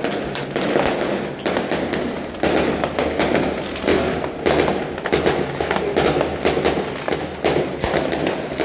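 Fireworks and firecrackers going off in a dense, continuous barrage: many overlapping sharp bangs and crackles, several a second, over a steady rumble of distant explosions.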